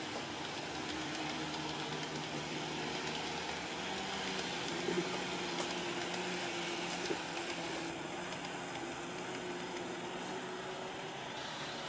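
Model train running on the layout: a steady motor hum that drifts slightly in pitch, with wheel and rail noise and a few light clicks.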